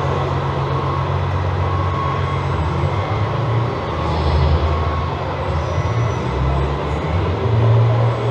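Steady low diesel-like engine rumble from an RC model truck's sound module, its pitch shifting a few times.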